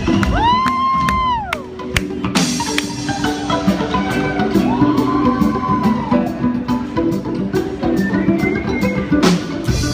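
Live band playing a song with drums. A high note glides up, holds and slides back down about a second in, and again around five seconds in.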